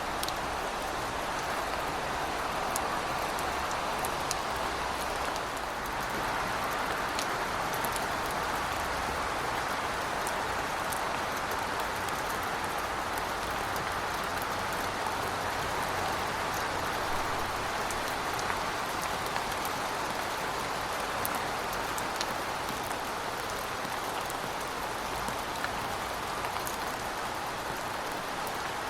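Heavy rain falling steadily: a dense, even hiss with scattered sharp drip ticks.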